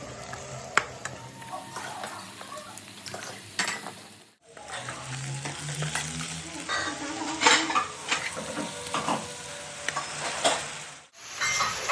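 Chicken sizzling as it fries in a pan, stirred with a utensil that clicks and scrapes against the pan. The sound cuts out briefly twice, about four seconds in and near the end.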